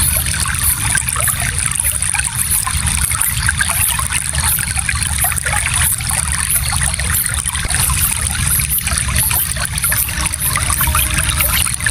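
A shallow stream flowing steadily, water trickling and splashing over stones.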